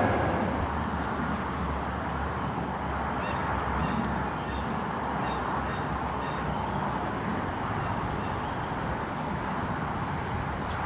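Steady rumble of a jet aircraft at a distance, with a few faint, short high chirps about three to six seconds in.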